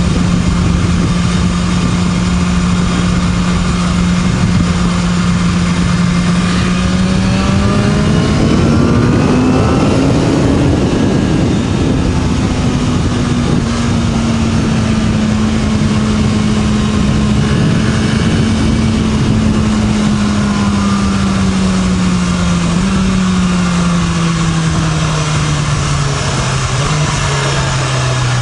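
BMW S1000RR inline-four with an Akrapovic slip-on exhaust running under way over a constant rush of noise. The engine note holds steady, climbs briefly about a third of the way in, then slowly falls as the bike eases off.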